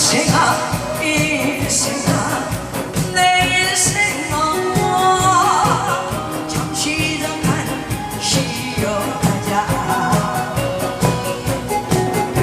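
A trot-style song with a lead voice singing over a loud backing track with a steady, even beat.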